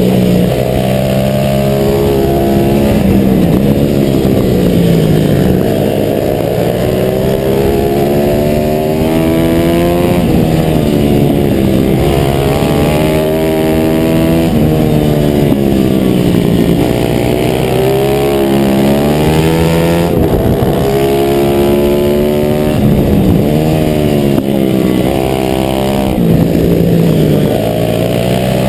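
A 140cc single-cylinder four-stroke pit bike engine racing, heard from on board the bike. The pitch climbs under acceleration, then drops off for corners and shifts, over and over.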